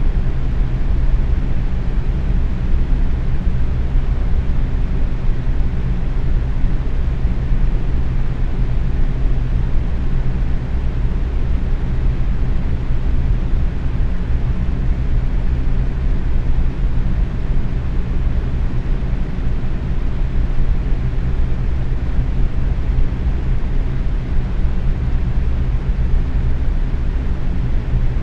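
Box fan running steadily at medium speed: a constant low whooshing rush of air with a faint hum from the motor.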